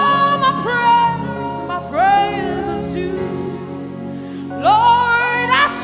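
Live gospel worship music: a woman singing long, wordless phrases that each slide up into the note, over sustained keyboard chords.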